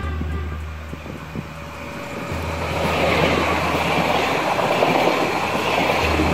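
Slovenian Railways passenger multiple unit passing close by: the rumble of wheels on rail builds from about two seconds in and stays loud as the carriages go past.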